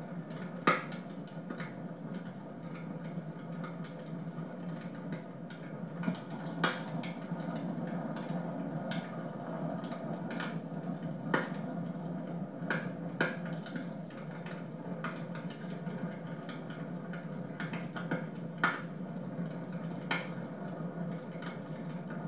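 Wood fire in a fireplace crackling: irregular sharp pops and snaps over a steady low background, with the loudest pop under a second in.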